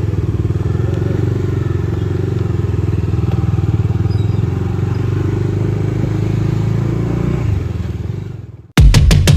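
Bajaj Dominar 250 motorcycle's single-cylinder engine running steadily, fading away near the end. Loud electronic music cuts in just before the end.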